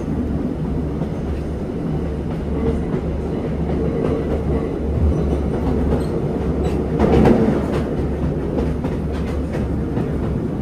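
Diesel passenger train running along the line, heard from on board: a steady low rumble with wheels clicking over the rail joints. It swells louder about seven seconds in, with the clicks coming more often after that.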